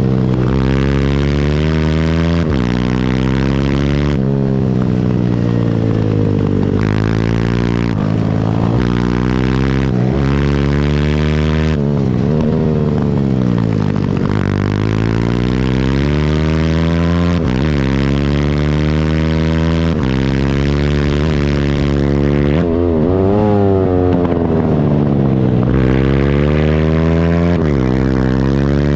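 Pit bike's small single-cylinder engine running hard on track. The pitch climbs and steps down again and again as it shifts up through the gears. Around the middle the engine note falls away as the bike slows for a corner, then climbs back up under acceleration.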